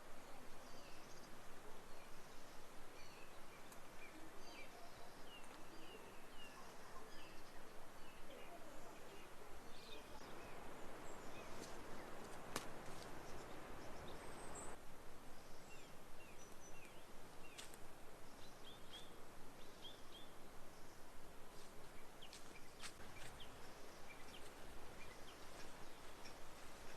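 Small birds chirping on and off over a steady background hiss. About ten seconds in a louder rushing noise rises for a few seconds and cuts off suddenly, with a few sharp clicks.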